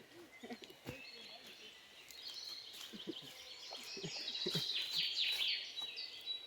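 Wild birds chirping, with quick high notes that fall in pitch, growing busier in the second half.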